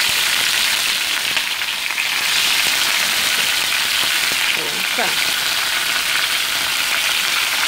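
Raw chicken pieces frying in hot oil in a wok, a steady sizzle.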